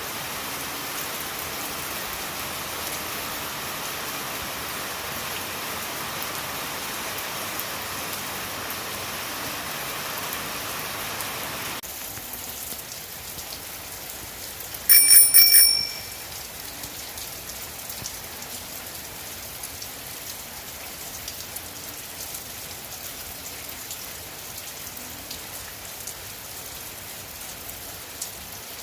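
Steady rain falling, an even hiss that drops in level about twelve seconds in. About three seconds after that, a short, loud, bell-like ring, quickly repeated a few times, cuts through the rain for about a second.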